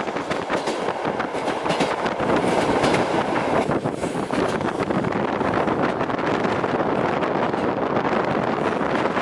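Passenger train running along the track: a steady rush of wheels on rails with a string of irregular clicks and rattles from the wheels, heaviest in the first few seconds.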